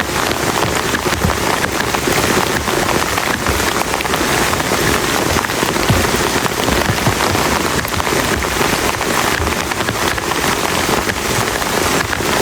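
Heavy rain falling steadily on a plastic tarp shelter, a dense hiss full of individual drop strikes.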